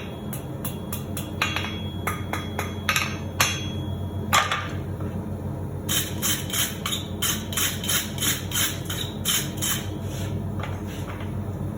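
Hand hammer striking a hot 1/4-inch round steel bar on the far edge of an anvil, curling its tip into a small scroll: a run of light blows, about two to three a second, turning sharper and quicker about six seconds in, over a steady low hum.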